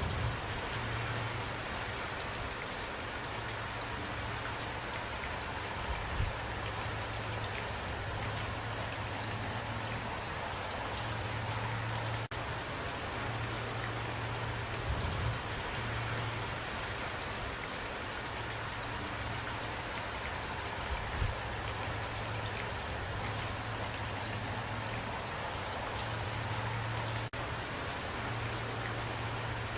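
Steady rainfall: an even hiss of countless raindrops, with a low hum underneath that fades in and out and a few slightly louder drips now and then.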